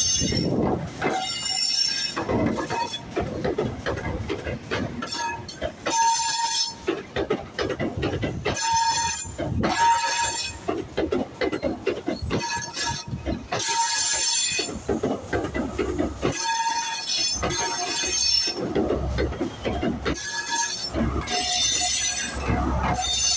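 ScotRail High Speed Train (class 43 diesel power cars and coaches) pulling out and rolling past, its wheels squealing on the rails every second or two over steady running noise. A heavier diesel rumble from the rear power car builds near the end.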